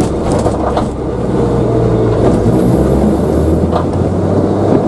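Toyota AE86's 4A-GE four-cylinder engine, fitted with individual throttle bodies, running as the car drives at low speed, heard from inside the cabin. The engine note eases about a second in, then builds again.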